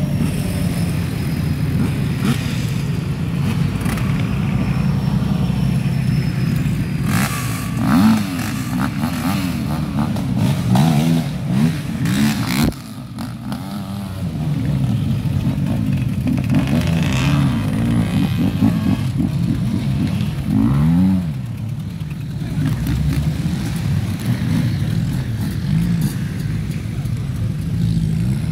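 Off-road 4x4 engines running and revving as vehicles pull away one after another, the engine note rising and falling several times. Sharp clattering knocks come through in the middle stretch.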